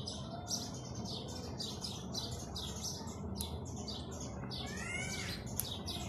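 Birds chirping: a steady run of short, high chirps, about two to three a second, with one longer call that sweeps up and down about five seconds in.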